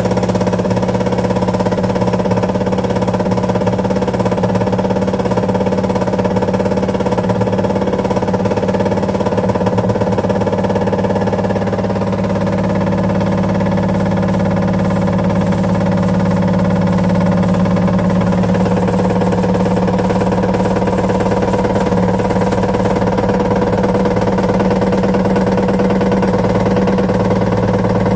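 Washing machine running with a loud, steady hum and a constant fine rattle, the noise the title likens to a basin full of nuts.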